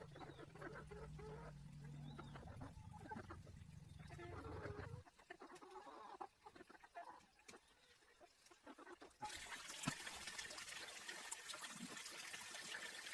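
Quiet outdoor background with a low rumble and faint scattered calls for the first few seconds; about nine seconds in, a steady hiss of running water begins abruptly.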